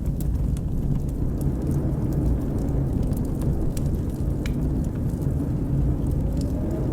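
Steady low rumble of blizzard wind, with the scattered sharp crackles of a wood fire in a fireplace, a few each second.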